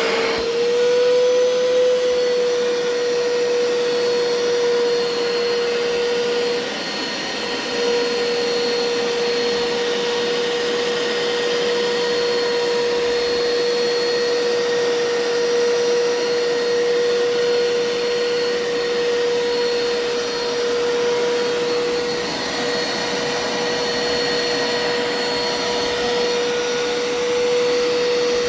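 Hoover Power Scrub carpet cleaner running: a steady motor whine over a rushing suction noise, which briefly dips and wavers about seven seconds in before settling again.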